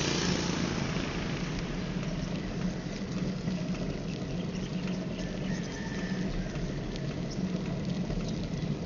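Steady rushing road and wind noise while riding a bicycle, with a faint crackle and scattered light ticks.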